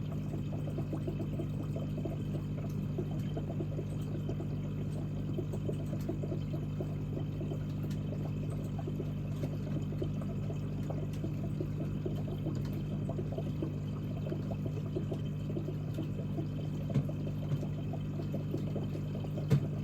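Aquarium water bubbling and trickling over the steady hum of the tank's pump, with a few soft knocks near the end.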